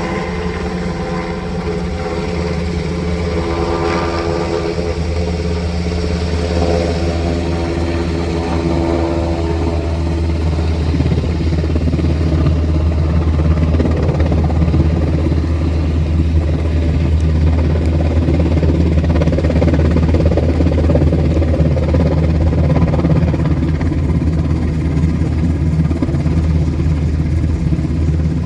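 Helicopter running, a loud steady low drone. A higher engine tone swells about four seconds in and fades out by about ten seconds.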